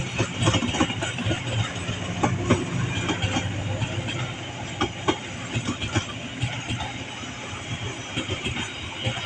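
Passenger train rolling past at a railroad crossing, its wheels clacking irregularly over the rail joints above a steady low rumble.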